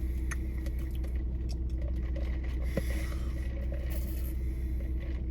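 Steady low hum of a car interior with a faint steady tone in it, with light scrapes and a few small clicks on top.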